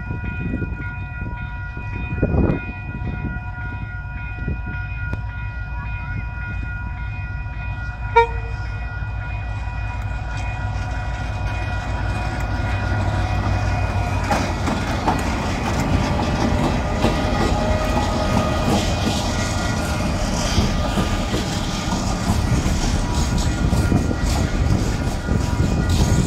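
KiwiRail DFT and DXB class diesel-electric locomotives approach and pass at close range with a container freight train. The engine rumble builds, then the container wagons clatter and rumble by, growing louder toward the end. For the first half, steady high warning tones ring from the level crossing alarm.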